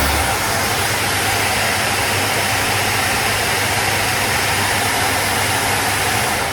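Orbital sander running steadily with 400-grit paper on a soft interface pad, sanding primer on a fuel tank to take out 240-grit scratches. It starts to wind down at the very end.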